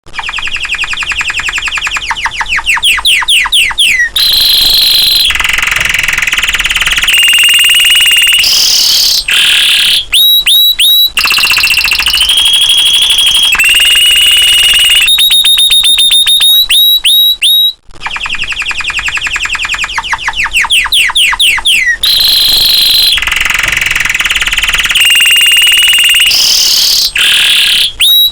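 Domestic canary singing vigorously: a loud, unbroken song of fast trills, rapid note series and held whistled notes. About 18 seconds in there is a brief break, and the same sequence of phrases starts over.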